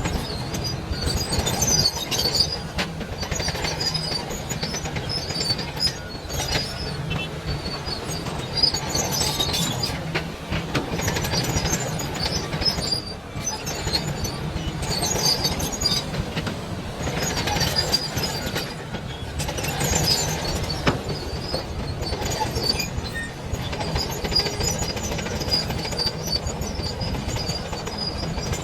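Large Hitachi mining excavator at work loading overburden: a steady low engine drone, intermittent high-pitched metal squealing and scattered clanks and knocks.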